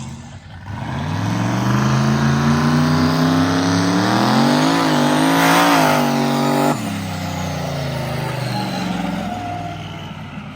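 Turbocharged mud truck engine pulling hard under load in first gear, its revs climbing steadily for about six seconds before dropping off sharply as the throttle is lifted, then running on at a lower, fading note. The load comes from a longer transfer-case gear just fitted so the turbo can build boost.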